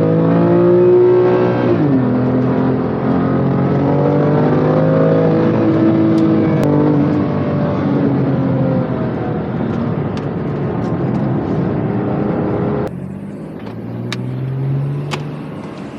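BMW M2 Competition's twin-turbo inline-six heard from inside the car, accelerating hard with its pitch climbing and dropping sharply at an upshift about two seconds in, then climbing again. About thirteen seconds in the engine goes much quieter as the driver lifts off, then rises again, with a few sharp clicks near the end.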